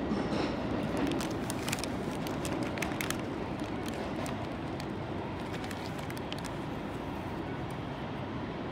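Shin-Keisei electric train pulling away, its running noise slowly fading into the distance, with a run of light clicks between about one and three seconds in.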